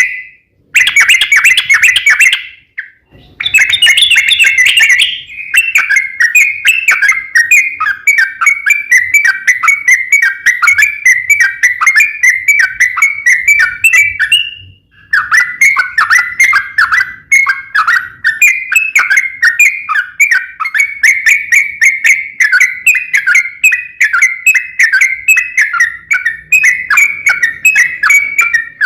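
Yellow-vented bulbul (trucuk) singing a long, rapid run of quick chirping notes, used as a lure call to get other bulbuls to answer. The song breaks off briefly about three seconds in and again about halfway through, then carries on.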